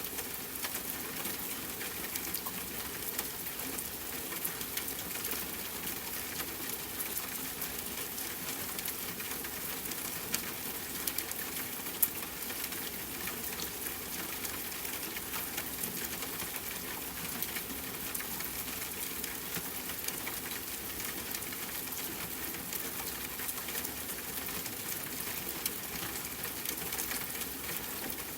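Steady rainfall with the light crackle and pops of a fireplace fire running through it; one sharper pop about twelve seconds in.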